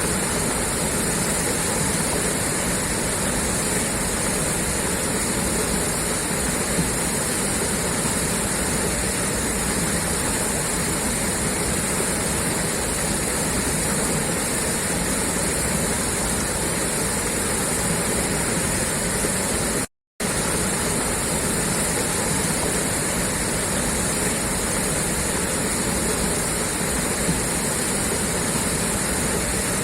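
Water gushing steadily out of a pipeline outlet, an even, loud rush. It breaks off for a split second of silence about two-thirds of the way through, then carries on unchanged.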